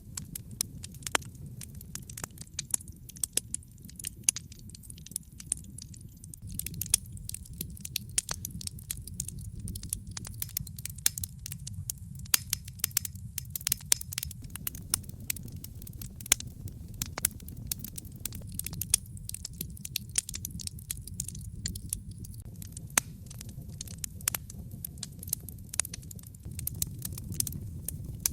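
Wood fire burning in a fireplace: a steady low rumble of the flames with frequent sharp, irregular crackles and pops, busiest from about seven seconds in.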